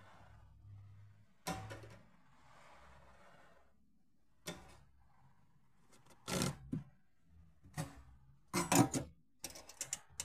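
A string of irregular clicks and clunks, a few spread out at first and then coming closer together near the end, with no engine running. Faint hiss lies between them.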